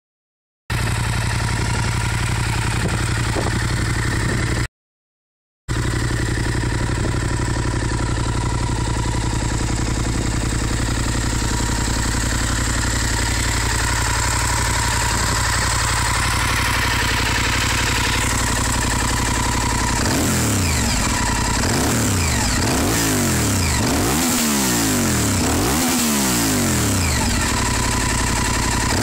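Honda VTR1000 Firestorm's V-twin engine through a BSM Vampire aftermarket exhaust, idling steadily, with a brief cut to silence near the start. From about two-thirds of the way through, the throttle is blipped again and again, each rev rising and falling quickly.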